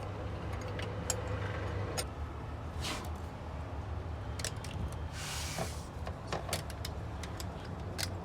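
Scattered metallic clicks and clinks of hand tools and ZF8HP transmission parts being handled during assembly, with a short scraping sound about five seconds in, over a steady low hum.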